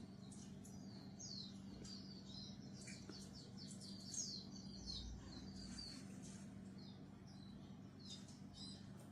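Faint birds chirping: many short, quick, falling chirps in rapid succession throughout, over a steady low hum.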